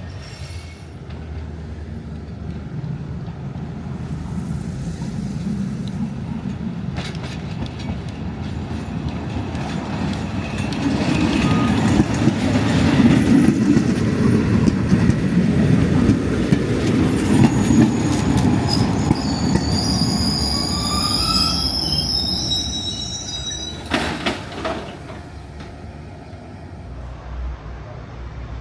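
Narrow-gauge tram-train on the Rome–Centocelle line running on its rails. The rumble swells to its loudest in the middle, the wheels squeal in high tones about two-thirds through, then there is a sharp clank and the sound dies away.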